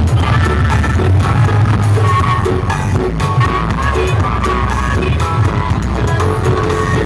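Loud music with heavy, continuous bass and a repeating melody line, played over a miniature 'sound horeg' loudspeaker rig.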